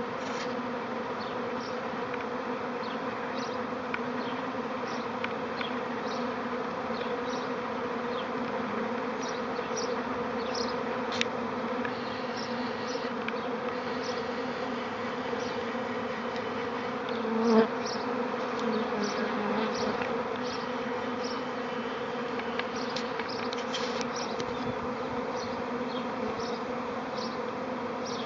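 Swarm of honeybees buzzing in a steady, dense hum, with a louder swell about 17 seconds in.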